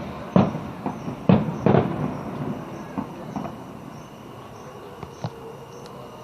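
Fireworks exploding: four loud bangs in the first two seconds, then a few fainter, sparser bangs as the display thins out.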